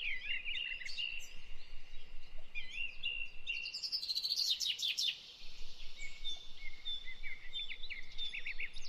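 Several songbirds chirping and trilling, their high calls overlapping continuously, with a brief lull a little past five seconds in.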